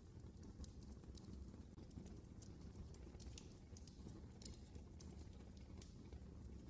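Faint crackling of a wood fire in a fireplace: scattered sharp pops and snaps over a steady low rumble of the flames.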